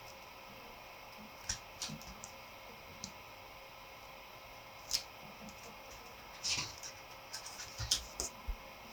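Handling sounds of a photo book: scattered sharp clicks and a brief rustle, as of pages being turned, over a faint steady room hiss.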